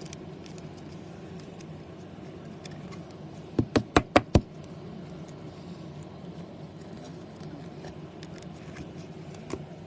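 A quick run of five sharp taps or knocks about four seconds in, like cards or small objects knocked on a tabletop, over a steady low room hum with faint scattered clicks.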